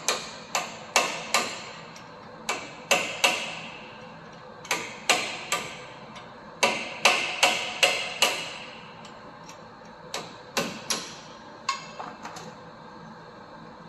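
Hammer knocking on metal at a seized, rusted CV axle nut to break its threads loose: about twenty sharp blows with a metallic ring, in bursts of two to four, with pauses of a second or two between bursts.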